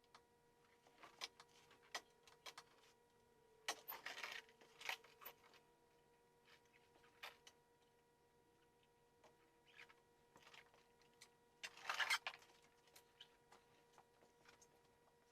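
Near silence: faint scattered clicks and a few brief rustles, the most noticeable about 4 and 12 seconds in, over a steady low electrical hum.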